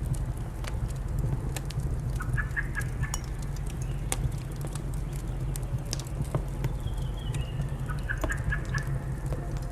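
Wood fire crackling with sharp pops over a steady low rumble, with short bird calls: a quick run of repeated chirps about two and a half seconds in, a higher chirp near seven seconds, and another run of chirps about eight seconds in.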